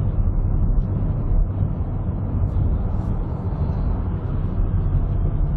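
Steady low rumble of engine and road noise inside a moving car, with no impacts.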